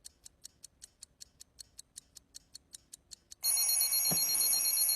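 Fast clock ticking, about six sharp ticks a second, then about three and a half seconds in a loud, bright high-pitched ringing starts abruptly, like an alarm clock going off.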